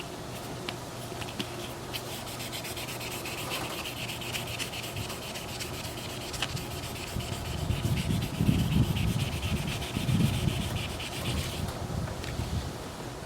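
Fine sanding pad rubbed quickly back and forth over the hard plastic housing of an Oster 76 hair clipper, a dense scratchy rasp of many short strokes as the scratched case is smoothed and polished. The rubbing gets heavier and louder for a few seconds past the middle and stops about a second before the end.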